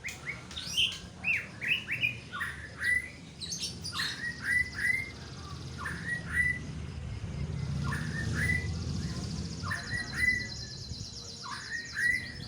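White-rumped shama singing: short upward-sweeping whistled notes repeated in clusters of two or three. A fast, high, buzzy trill joins a few seconds in and runs on, over a low background rumble.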